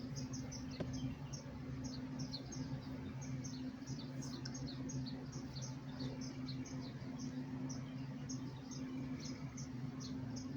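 Honeybees buzzing around an open hive: a steady low hum, with short high chirps repeating throughout.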